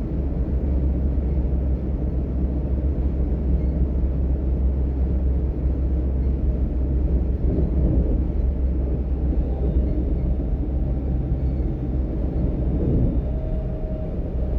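DB Class 425 electric multiple unit running between stations: a steady low rumble from the wheels and running gear. A faint steady tone joins near the end.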